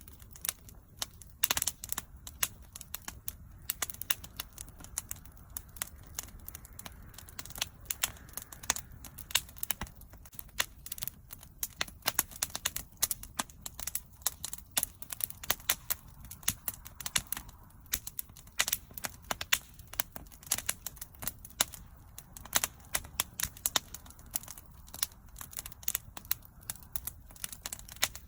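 Wood fire crackling steadily, with irregular sharp pops and snaps over a low rumble of flame.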